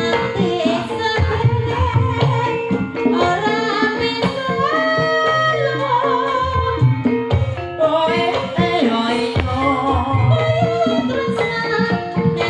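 Live amplified dangdut-style jaranan music through a PA system: hand-drum (kendang) strokes under a wavering sung melody with instrumental backing.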